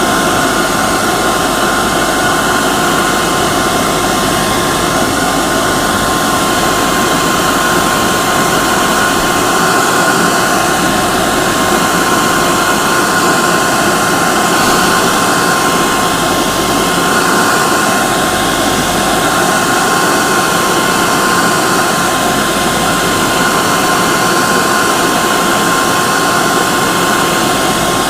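Hair dryer running steadily: an even blowing rush with a constant high whine from its motor and fan.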